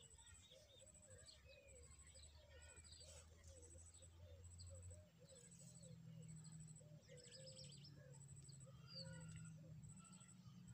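Faint bird chirps and calls, many short notes one after another, over a low steady hum and a faint high pulsing about once a second.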